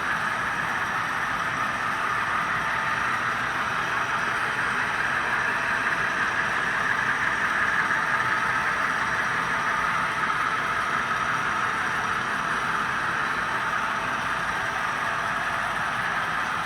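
Steady whir of a long model train running on its layout: the motors of ten powered model locomotives and the wheels rolling on the rails. It swells slightly in the middle, then eases.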